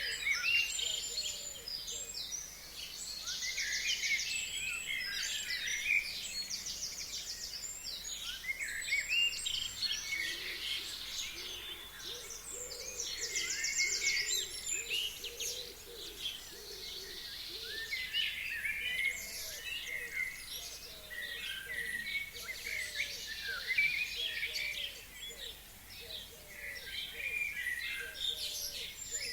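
Forest songbirds singing together: many overlapping chirps and fast trills, with a lower, repeated short call running beneath, strongest in the middle stretch.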